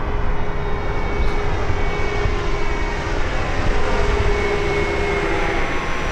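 Jet engines of a large RC model Boeing 777X running steadily in flight, a continuous whooshing drone with faint steady whines that shift slightly in pitch.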